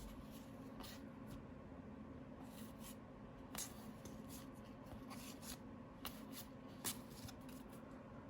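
Trading cards being handled: soft rubbing and sliding with a few light clicks scattered through.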